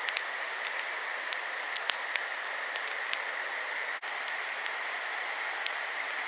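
Wood campfire crackling, with sharp irregular pops scattered over a steady rushing hiss.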